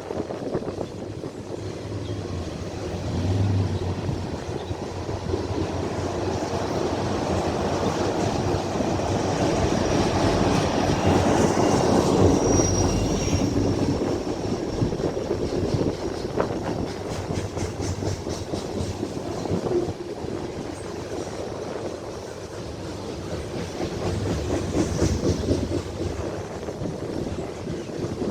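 Norfolk Southern freight train rolling past, its wheels clacking rhythmically over the rail joints. The sound swells toward the middle, with a brief high wheel squeal about twelve seconds in.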